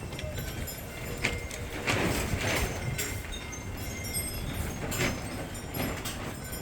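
Household objects being moved and set down: scattered knocks and clicks, with a spell of rustling about two seconds in.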